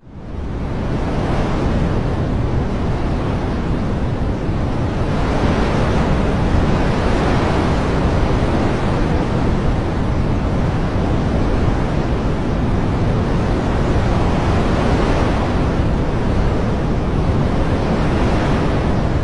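Dense, steady rushing of water with slow, gentle swells in loudness. It cuts out for an instant at the very start, then fades back in.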